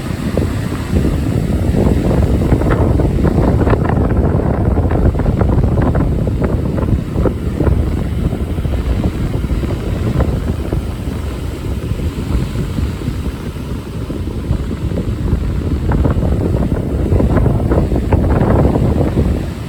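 Strong onshore wind buffeting the microphone in gusts, a loud low rumble that swells for several seconds at a time and eases between gusts.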